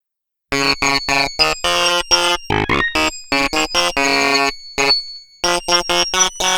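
Synthesizer music: a run of short, choppy keyboard notes starting about half a second in, with a brief pause near the end.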